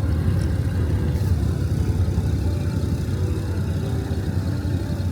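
Motor vehicle engines idling, a steady low rumble.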